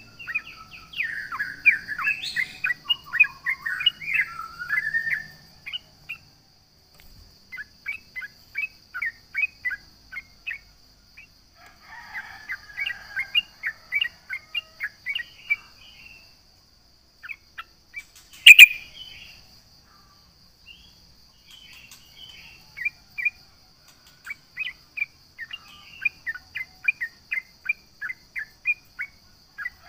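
Yellow-vented bulbul (trucukan) singing in bouts of bubbly warbled phrases and fast runs of short chirps, with pauses between bouts, over a faint steady high tone. A single sharp, loud click comes about 18 seconds in.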